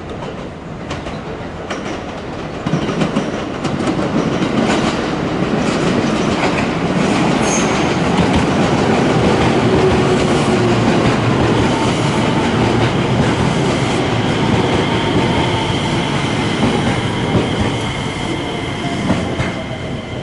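Electric commuter train passing close below, growing louder a few seconds in, with wheels clicking over rail joints. In the later part a high steady whine and a slowly falling tone come in as it slows into the station.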